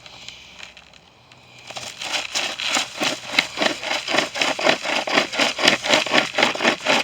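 Chainmate pocket chainsaw, a 25.5-inch chain pulled by cloth handles, sawing through a tree limb. It starts about two seconds in and rasps through the wood in quick, even back-and-forth strokes without binding.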